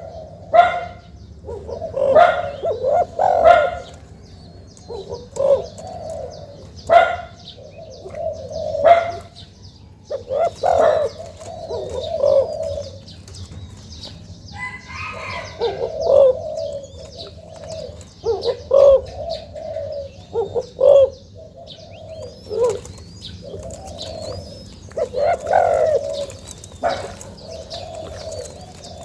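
Young spotted doves cooing over and over in deep phrases, with a few short sharp sounds among the coos and faint high chirps from other birds.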